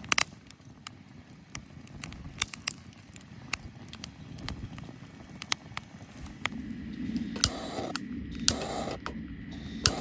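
Irregular sharp clicks and cracks, one or two a second, over a low rumble, with rougher rustling bursts in the last few seconds.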